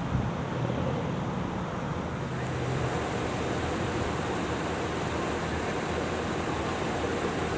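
Road traffic noise: a steady wash of passing vehicles on a busy street, brightening about two seconds in as more traffic comes by.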